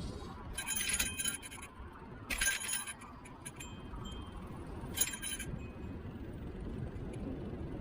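Steady low rumble of a Niu KQi3 Pro electric scooter rolling along, broken by three short bursts of metallic jingling: about half a second in, around two and a half seconds, and near five seconds.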